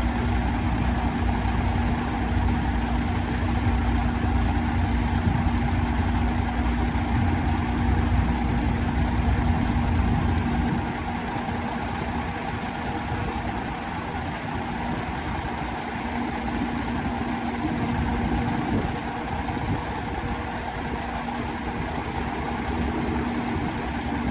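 Diesel engine of a 1994 Ford 9000 dump truck idling steadily. The low rumble is heavier for about the first ten seconds, then eases a little for the rest.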